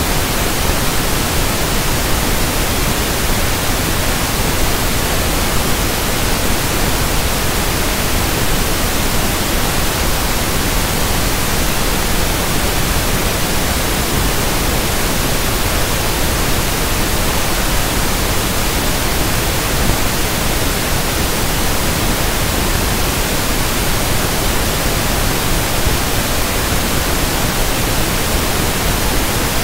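Steady electronically generated pink noise (1/f noise): an even, unchanging hiss spread across the whole range, with no breaks or events.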